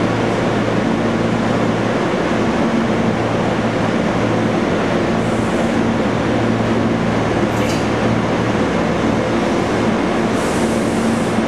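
Tobu Railway 8000 series electric train arriving at a station: a steady, loud rumble with a constant hum, and brief high hisses about five seconds in and again near the end.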